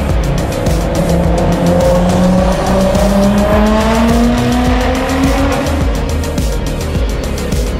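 Nissan GT-R R35's twin-turbo V6 accelerating, its engine note climbing steadily for about four seconds and then fading, over background music with a heavy low beat.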